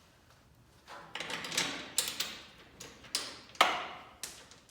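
Metal garage-door hardware being handled: a run of sharp clicks and clanks starting about a second in, with one louder clank about three and a half seconds in.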